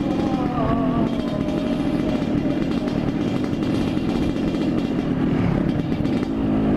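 Yamaha RX-King two-stroke single-cylinder motorcycle running at a low, fairly steady throttle through its very loud exhaust while riding along, with slight rises and dips in pitch.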